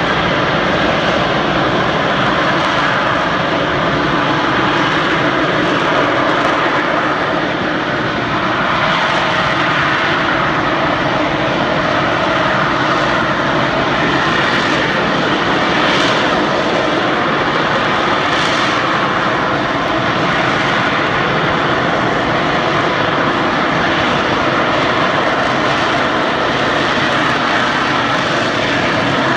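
Harrier jet's Rolls-Royce Pegasus turbofan running loud and steady, a continuous jet rumble and hiss with no break.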